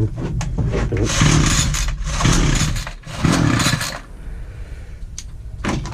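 Titan petrol multi-tool's engine being pull-started three times in quick succession, the recoil starter turning the engine over without it catching: a hard-to-start machine.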